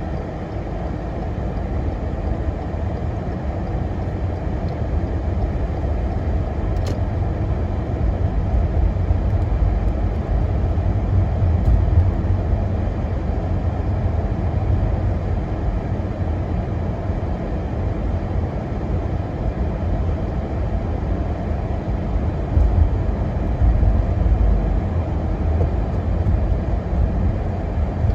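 A car driving along: steady engine and road noise heard from inside the cabin, deepest in the low rumble.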